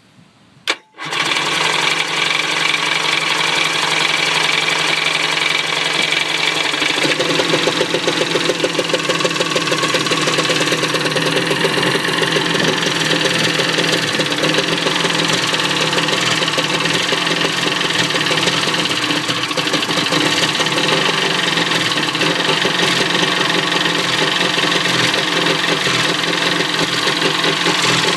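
1995 Sea-Doo HX's 717cc Rotax two-stroke twin starting after a short click about a second in, then running at idle with a pulsing beat. It will idle but dies as soon as it is given any gas. The owner suspects fuel delivery: the rear carb is getting lots of gas while the front carb seems dry.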